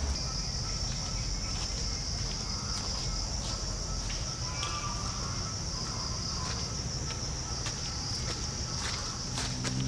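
Steady high-pitched insect chorus of forest crickets, with a low rumble underneath and scattered light clicks.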